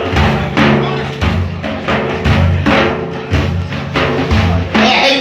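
Frame drums (daf) beating a steady devotional rhythm, about two strokes a second, with low sustained tones under the beats. A voice begins singing or chanting near the end.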